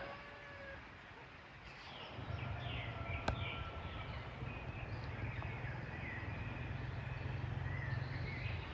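Small birds chirping and calling over a steady low rumble, with a single sharp click about three seconds in.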